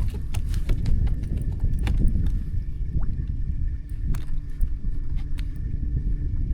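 Steady low rumble with scattered sharp knocks and clicks of handling on a bass boat.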